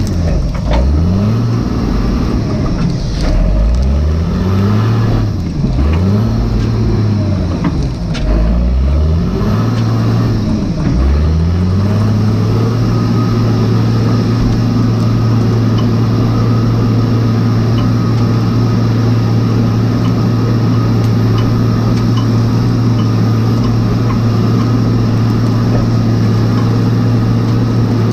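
Log skidder's engine revving up and down over and over, then holding a steady speed from about twelve seconds in.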